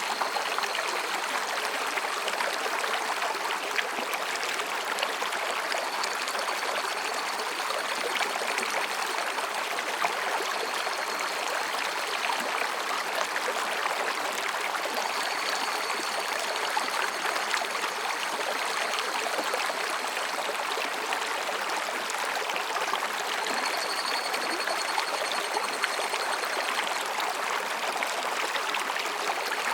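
Mountain stream flowing between rocks, a steady babbling rush of water. Faint, thin high calls of higurashi (evening cicadas) come and go several times behind it.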